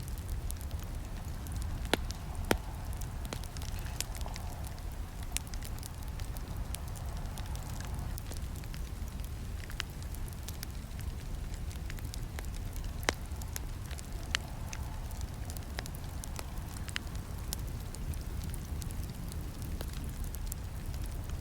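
Campfire crackling: scattered sharp snaps and pops over a low, steady rumble of burning, with a louder snap about two and a half seconds in and another a little past the middle.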